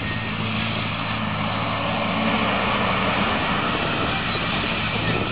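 Scania truck's diesel engine running steadily under a broad rushing noise.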